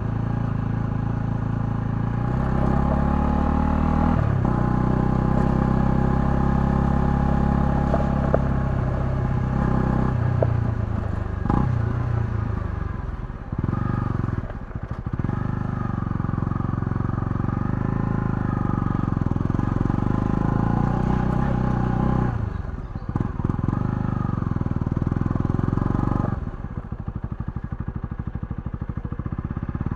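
Honda CL250's single-cylinder engine running under a ride, its revs rising and falling with brief breaks between gears. It settles to a lower, quieter run near the end.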